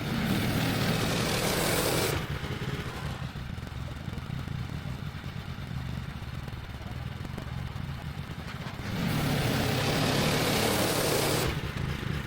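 Woodland Mills HM130 Max bandsaw mill running as it saws a log: a steady engine hum, with two louder, hissier stretches of blade noise, one at the start and one from about nine seconds in.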